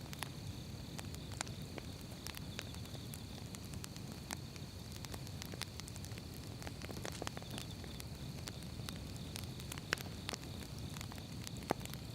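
Firewood burning in an open fire: irregular sharp crackles and pops over a low, steady rumble of the flames, with a couple of louder pops near the end.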